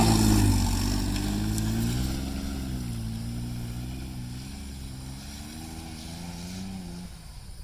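1999 Ford Mustang's V6 engine revving up and down as the car pulls away, its sound fading steadily until it is almost gone near the end.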